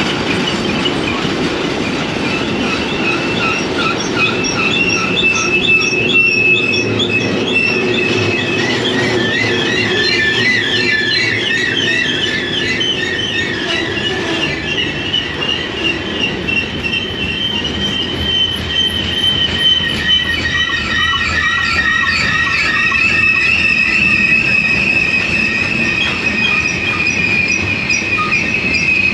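Train cars rolling past with steel wheels squealing, several high wavering squeal tones over a steady rolling rumble.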